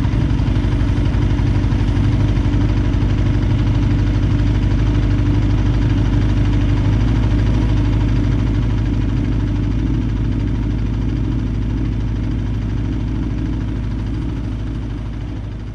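Aprilia Tuono V4R's V4 engine idling steadily, the sound fading out over the last few seconds.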